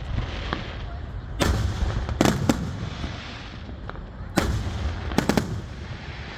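Aerial fireworks shells bursting: a string of sharp bangs, each with a trailing echo, ending in a quick triple bang about five seconds in.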